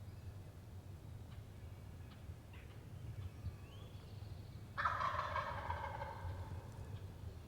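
Wild turkey gobbler gobbling once, a rapid rattling call of about a second and a half that starts near the end and trails off slightly lower. Faint small-bird chirps come a few seconds before it.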